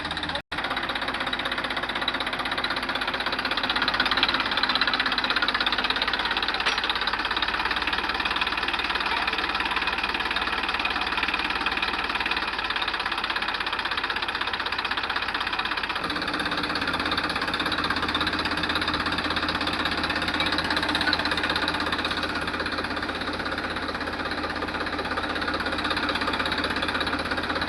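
John Deere tractor's diesel engine running steadily, its low hum growing stronger a little past the middle. The sound drops out for an instant just after the start.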